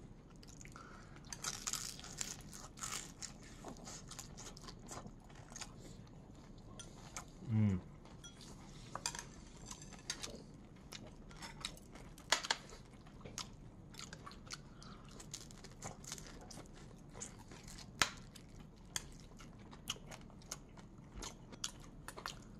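Close chewing and crunching of crispy oven-baked salmon head, with scattered small crackles and clicks throughout. A brief low hum, falling in pitch, about seven and a half seconds in.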